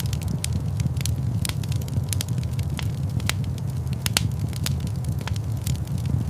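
Wood fire crackling in a fireplace: irregular sharp pops and snaps, several a second, over a steady low rumble of flames.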